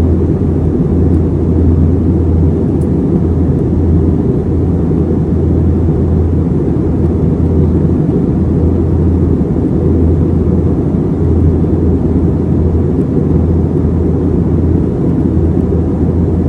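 Steady, loud low rumble of an Airbus A321's engines and rushing air, heard from inside the passenger cabin.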